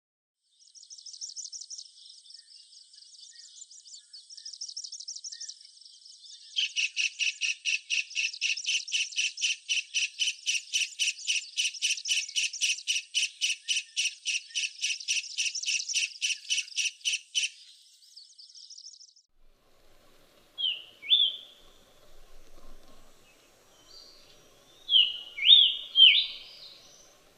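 Bird calls: a long, very even, high-pitched trill of rapid pulses, about four a second, that grows louder partway through and stops about two-thirds of the way in. After a short gap come a few short, sharp downward-slurred chirps, the loudest near the end.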